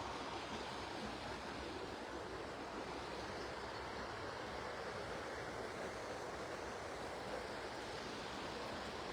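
A river rushing and flowing steadily.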